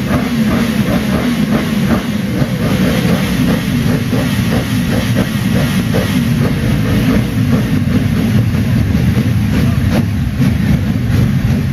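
Yamaha R1 inline-four engine running loud and steady through its exhaust, with a deep rumble and no sharp revving.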